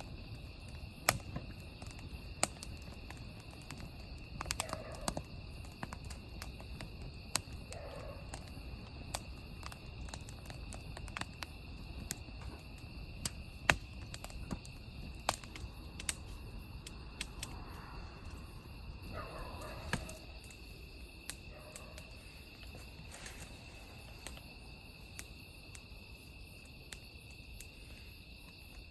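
Wood fire crackling with irregular sharp pops, over a steady chorus of crickets chirping.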